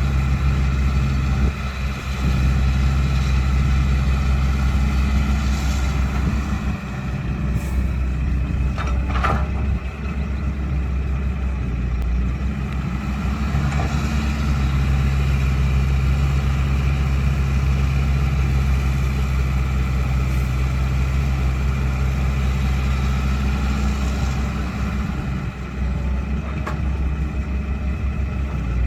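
Diesel engines of a Caterpillar 312 excavator and a dump truck running steadily while soil is loaded, with a short clank about nine seconds in.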